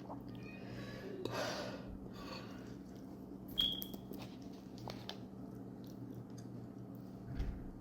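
A person chewing buldak ramen noodles close to the microphone, with a short, high clink about three and a half seconds in. A steady low hum runs underneath.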